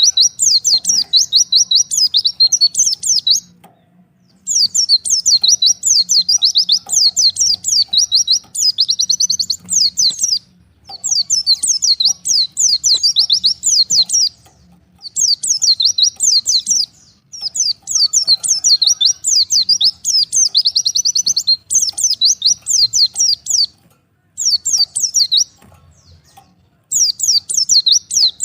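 White-eye (pleci) singing: fast twittering phrases of high chirps, each a few seconds long, with short pauses between them. It is the kind of calling song used as a lure to set off other white-eyes.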